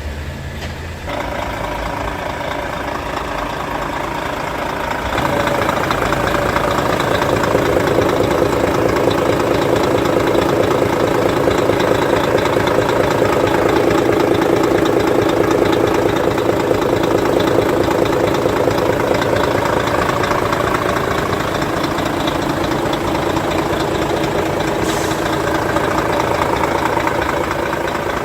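Volvo FH 540's D13K six-cylinder diesel engine running steadily at idle, getting louder about five seconds in and holding there.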